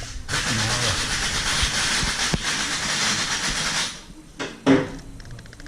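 Pressurised spray hissing steadily for about four seconds, then cutting off suddenly, followed by a few light clicks.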